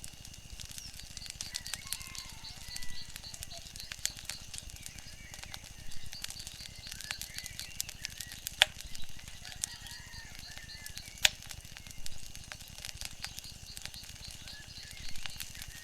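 Wood fire crackling: a stream of small sharp pops and snaps, two of them markedly louder about two thirds of the way through. Faint high sliding chirps and a steady high pulsing run underneath.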